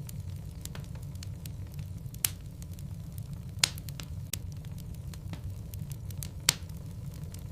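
Wood logs burning in a fireplace, crackling steadily over a low rumble, with three sharp pops standing out among the smaller crackles.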